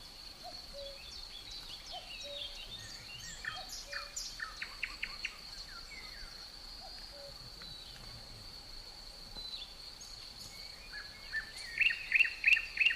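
Songbirds chirping and calling, with a quick series of chirps about four seconds in and a louder run of four sharp chirps near the end, over a steady high-pitched whine.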